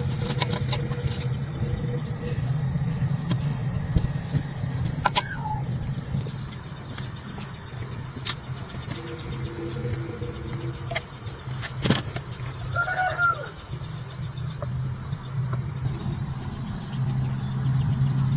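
Electric water pump running steadily: a low motor hum with a steady high whine over it, a few light clicks, and a short chirp about 13 seconds in.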